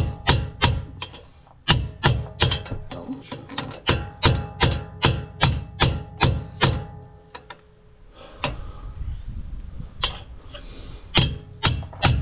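Steady hammer blows, about three a second with a metallic ring, driving a pinion bearing race into a pickup's differential housing. The blows stop for a few seconds about two thirds of the way through, then start again.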